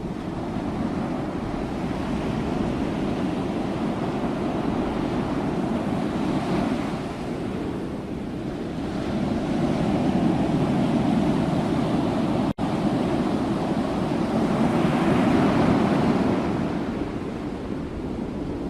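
Ocean waves breaking and washing on a shore, the surf swelling louder and ebbing every few seconds, with a split-second cut-out about two-thirds of the way through.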